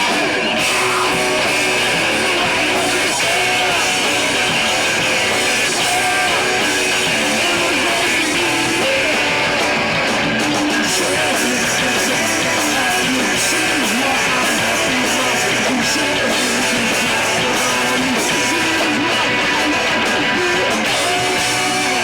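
Live rock band playing loud distorted electric guitars, bass and drums, with some singing, recorded from the audience.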